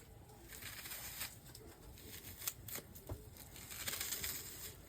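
Intermittent soft rustling and crinkling with a few small clicks, the sound of kitchen ingredients being handled.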